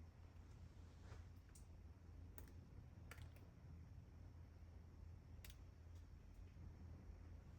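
Near silence: a low steady rumble with a handful of faint, scattered clicks.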